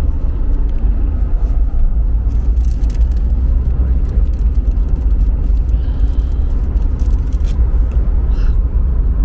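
Steady low rumble of a car on the move: road and engine noise, with a few faint knocks.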